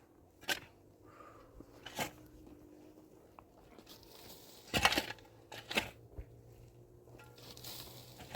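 Four short crunching noises spaced a second or more apart, the loudest about five seconds in, over a faint steady hum.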